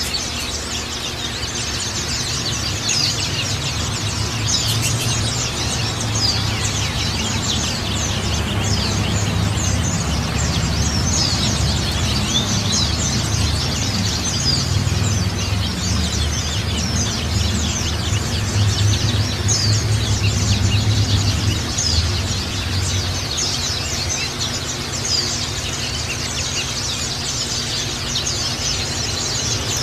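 A flock of white-eyes (pleci) chirping and twittering continuously, many short high calls overlapping, over a low steady rumble.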